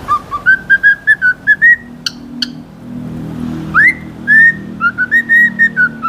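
A pet songbird whistling a quick series of short, clear notes, then an upward-sliding note and a longer held one, with a couple of sharp clicks in between.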